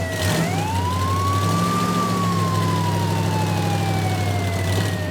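Wailing siren: one slow rise in pitch, then a long slow fall, starting to rise again near the end, over a steady low hum.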